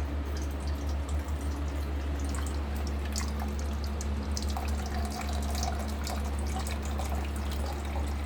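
Water running from a bottom-loading water dispenser's cold tap into a cup, over the steady low hum of the dispenser's newly replaced pump drawing water up from the jug.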